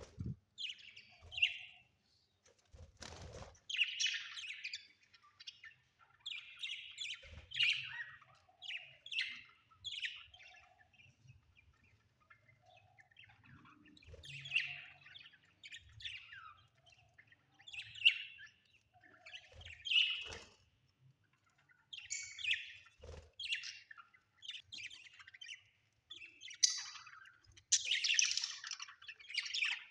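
Budgerigars chirping in a run of short, quick calls. A few sharp knocks sound among them, the first about three seconds in.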